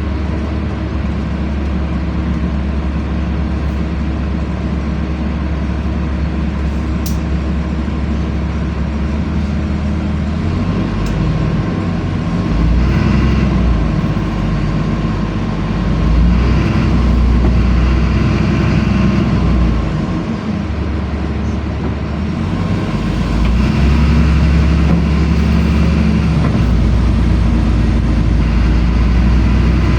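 LiAZ-5292 city bus running, heard from inside the passenger cabin: a steady low engine and drivetrain drone whose note shifts several times as the bus changes speed, easing briefly about two-thirds of the way through before pulling again.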